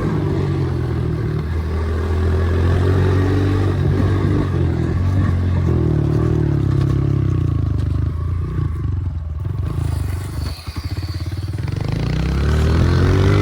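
Dirt bike engine running with the revs rising and falling. About ten seconds in it drops to a low, pulsing idle, then revs back up near the end.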